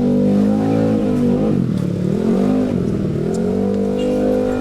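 A motor vehicle's engine accelerating close by: its pitch climbs, drops and climbs again about two seconds in, then holds steady before fading away at the end.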